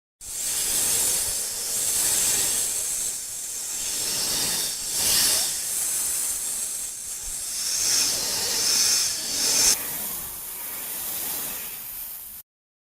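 An animal hissing: a long, breathy hiss in several surges that starts and cuts off abruptly.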